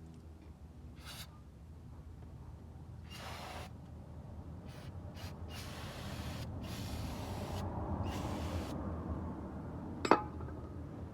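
Handling noises during brake work: short scrapes and rustles, and one sharp metallic clink about ten seconds in, the loudest sound.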